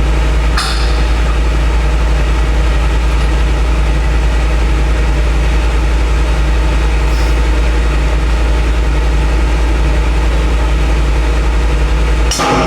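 Diesel engine of a Hitachi EX200-5 excavator idling steadily with a deep hum, with a sharp hammer strike on metal about half a second in and another near the end as a pin is driven out of the arm.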